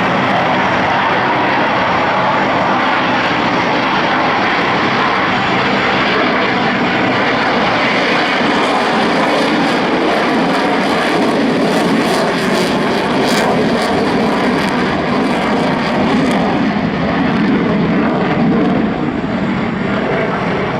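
Loud, steady airplane engine noise.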